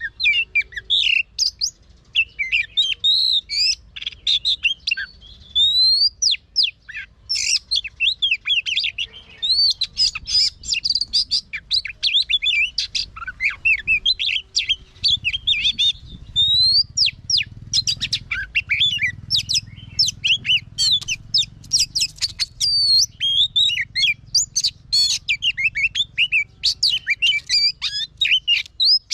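Oriental magpie-robin singing a long, varied song of rapid whistles, glides and chirps, almost without a break.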